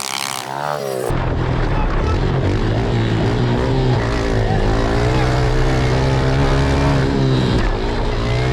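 Several pit bike engines racing, their notes rising and falling as they rev through the gears. About a second in the sound changes abruptly to a muffled, bass-heavy engine drone, as if heard from a different microphone.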